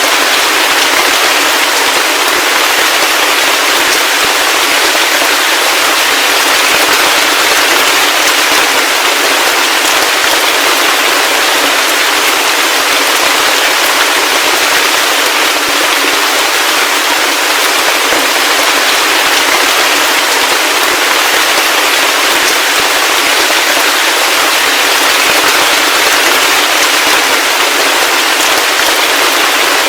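Heavy rain falling steadily, a dense, even hiss of many fine drops with no breaks or thunder.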